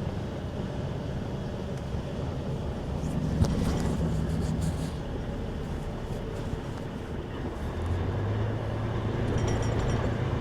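Truck tractor's engine and road noise heard from inside the cab while driving, with a sharp knock about three and a half seconds in and the engine hum growing stronger about eight seconds in.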